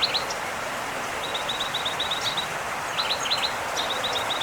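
Small birds chirping: quick runs of short, high, even notes, with a few sharp down-slurred calls between them, over a steady hiss of outdoor background noise.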